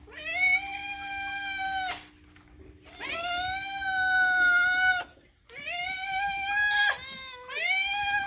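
Domestic cat yowling: about four long, drawn-out meows of one to two seconds each, separated by short pauses.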